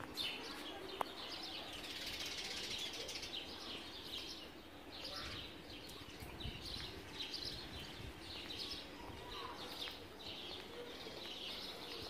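Small birds chirping, many short high calls in quick runs, over a steady low outdoor background, with a single sharp click about a second in.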